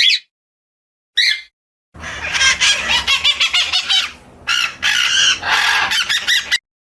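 Bird calls: two short single calls, then from about two seconds in a loud, dense clamour of many overlapping calls from several birds, which cuts off abruptly near the end.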